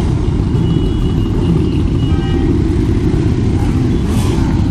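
Steady low rumble of motorcycles riding in a large convoy, loud and unbroken.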